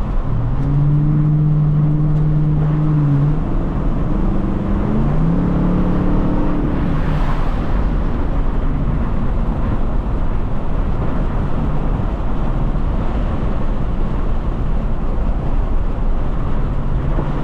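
Car engine and road noise heard from inside a moving car. An engine note rises in pitch and holds for a few seconds, does so again a couple of seconds later, and comes back faintly near the end.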